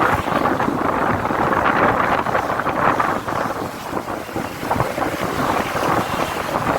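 Steady rush of wind buffeting the microphone, mixed with the running noise of road vehicles.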